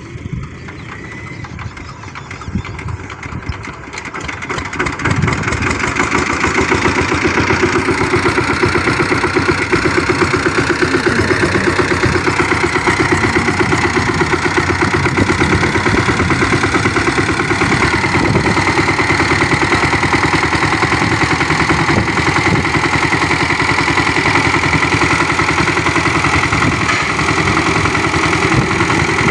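Power tiller engine running with a rapid, even firing beat, growing louder between about four and six seconds in and then holding steady.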